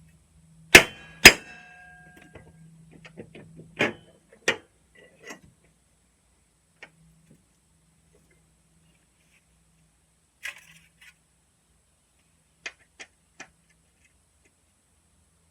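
Two sharp metal clanks about half a second apart, the second ringing briefly, followed by scattered lighter clicks and taps of metal tools and parts being handled.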